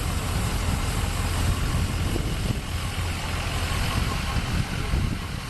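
A large vehicle's engine idling steadily, a constant low rumble, with faint voices in the background.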